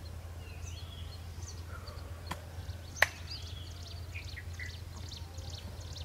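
Wild birds calling, with many short chirps and a few whistled glides, over a low steady hum. A sharp click comes about three seconds in, with a fainter one just before it.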